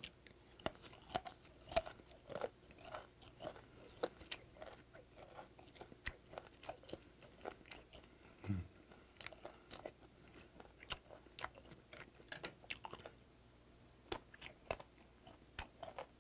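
Close-up chewing of fermented skate sashimi, with irregular wet clicks and crunches as the firm skate cartilage is bitten through. About halfway there is a short, low, falling hum from the eater.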